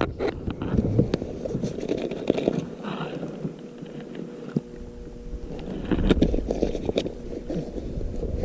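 Wind on the microphone with scattered knocks, clicks and scrapes of gear being handled aboard a kayak.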